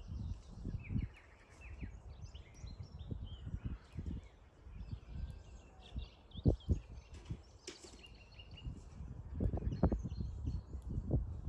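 Several small birds chirping and twittering on and off, over a breeze buffeting the microphone in low gusty rumbles that grow stronger near the end. A single short click sounds about two-thirds of the way in.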